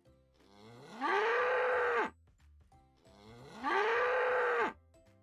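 A bull mooing twice. Each call starts low, rises in pitch into a long held bellow of about a second and a half, then cuts off. Faint soft music plays underneath.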